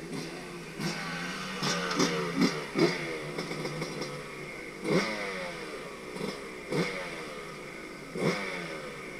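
Dirt bike engine revving in short bursts, about eight times, the pitch falling away after each blip, over a steady running note.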